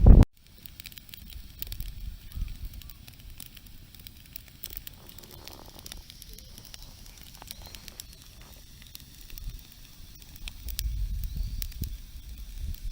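Wood campfire crackling, with scattered sharp pops and snaps over a low rumble that swells a little near the end.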